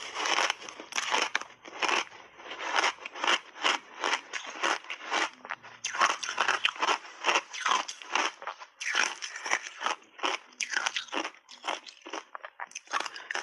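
Ice bars being chewed in big bites, close to the microphone: rapid, irregular crunches and cracks, several a second, with brief lulls between bites.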